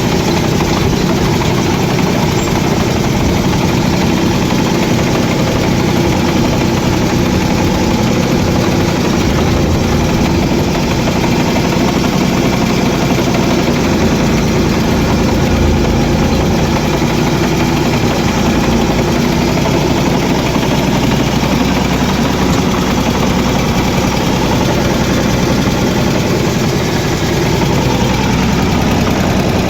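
A 1970 Ford tractor's engine running steadily at constant revs.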